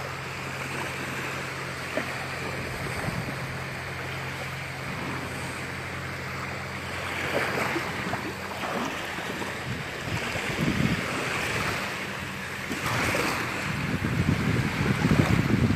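Small waves washing up on a sandy beach, with wind buffeting the microphone in gusts that grow stronger over the last few seconds.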